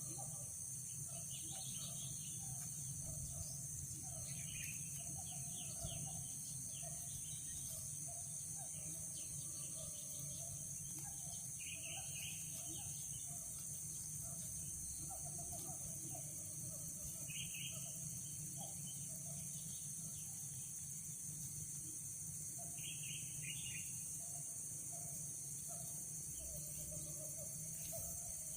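Wild birds chirping and calling in short scattered notes over a steady high-pitched insect hum, with low background noise.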